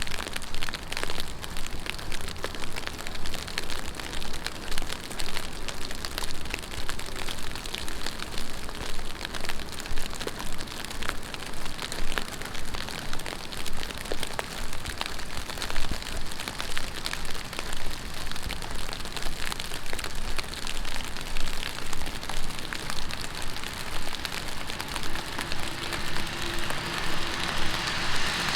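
Heavy rain pattering steadily on the street and surfaces, with many sharp individual drop taps. Near the end, a passing vehicle's tyres on the wet road begin to swell in.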